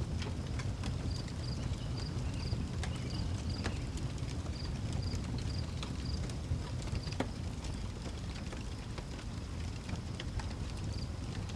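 Outdoor wood fire crackling with irregular sharp pops over a low steady rumble, while a cricket chirps in short high pulses repeating about once a second.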